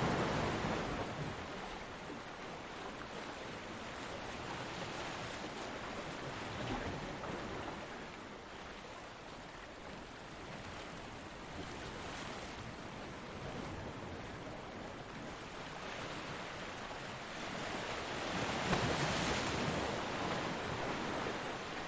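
Ocean surf breaking on a beach: a wave's crash and wash at the start eases off within a couple of seconds into a quieter hiss of water. A second wave builds and breaks about eighteen to nineteen seconds in.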